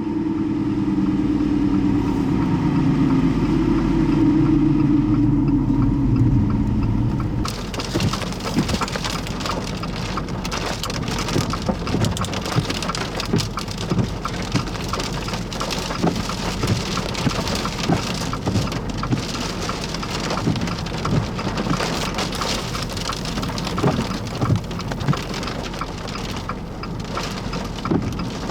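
Heavy rain pelting down with many sharp drop impacts, coming in suddenly about seven seconds in after a low vehicle rumble.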